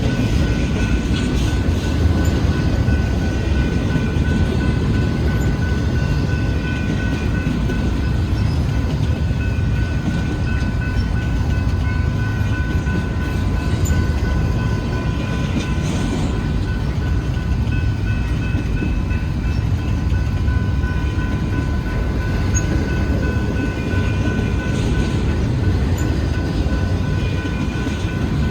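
Freight cars of a long Union Pacific intermodal train rolling past at steady speed: a continuous low rumble of steel wheels on rail, with a faint steady ringing tone over it.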